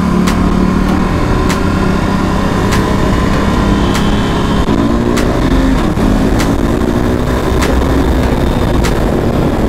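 KTM RC 390's single-cylinder engine accelerating hard, its revs rising and dropping back several times as it shifts up through the gears, with wind noise from riding at speed.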